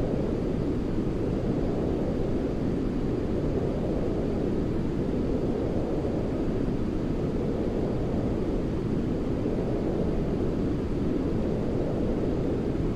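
Steady, deep rushing noise of a baby sleep-aid white-noise track, heavy in the low range like brown noise, with its upper edge swelling gently every few seconds.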